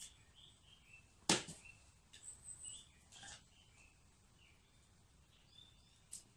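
Short high chirps of small birds at intervals, with a few sharp clicks close by, the loudest just over a second in and another about three seconds in.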